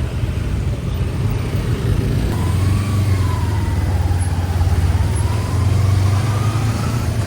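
Motorbike running while riding in traffic, with a steady low rumble of engine and wind on the microphone. From about two seconds in, a faint thin whine rises and falls.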